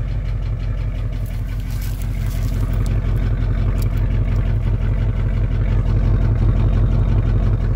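1977 Jeep Cherokee Chief's engine running steadily after a cold start, a low even rumble that grows a little louder in the second half.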